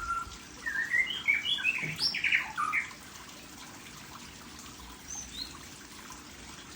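Small caged songbirds chirping and singing: a burst of quick, sliding chirps for the first three seconds, then only a couple of faint high chirps.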